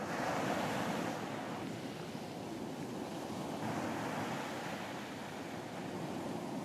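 Ocean surf breaking and washing onto a beach, a steady rush that swells at the start and again about four seconds in.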